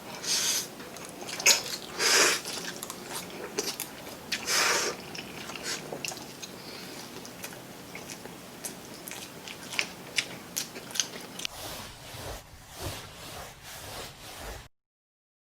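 Close-up mukbang eating sounds: crunchy bites into crispy fried chicken, then chewing with small crackles and wet mouth sounds. The loudest crunches come in the first few seconds, and the sound cuts off abruptly shortly before the end.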